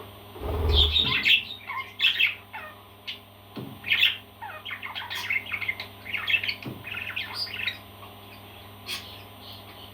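A pet parrot calling in a rapid run of short squawks, with a low thump about half a second in; the calls die away near the end.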